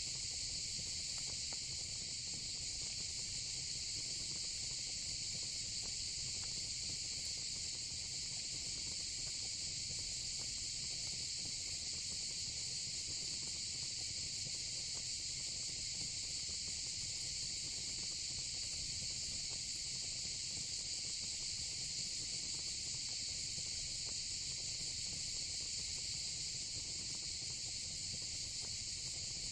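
Steady, unbroken high-pitched chorus of crickets and cicadas, with a faint low fire rumble beneath.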